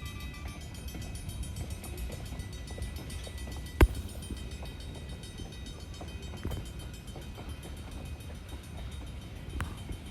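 Train rumbling steadily, with one sharp loud knock about four seconds in and two fainter knocks later.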